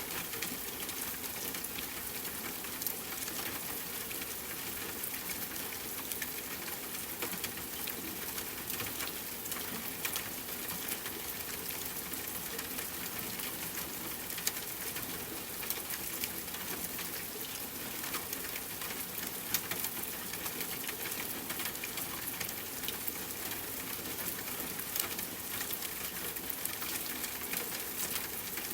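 Steady rainfall, an even hiss of drops, mixed with the scattered small pops and crackles of a wood fire.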